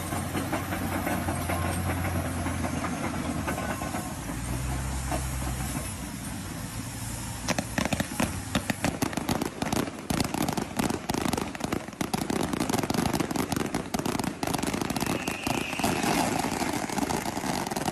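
A vehicle engine running with a steady low hum that shifts in pitch about four seconds in, followed from about seven seconds on by many rapid clattering knocks and crackles.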